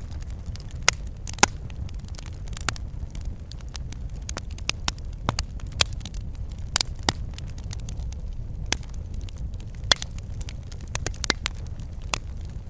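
Wood fire crackling in a fireplace: irregular sharp pops and snaps over a steady low rumble of burning, with a few louder pops, one about a second and a half in and another near ten seconds.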